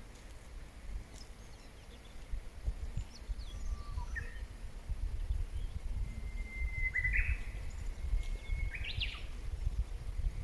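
Wild birds singing outdoors: a few faint high chirps, then two songs in the second half, each a long held whistle that ends in a quick rising flourish. A steady low rumble runs underneath.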